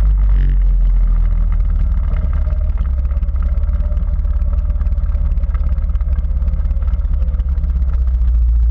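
Quad bike engine running steadily under way, with a heavy low rumble.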